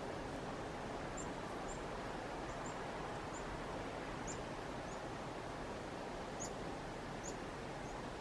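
Chickadees giving short, high chirping calls, about ten scattered through several seconds, the last few louder, over a steady background hiss.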